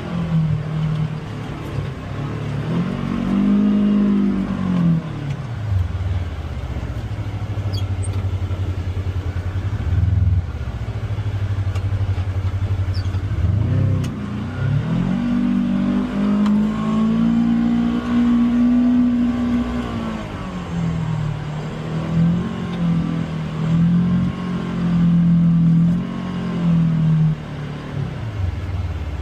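Polaris Xpedition UTV engine under way on a trail, its revs rising and falling with the throttle: climbing about three seconds in, dropping back, then climbing again midway and holding high for several seconds before wavering and falling near the end.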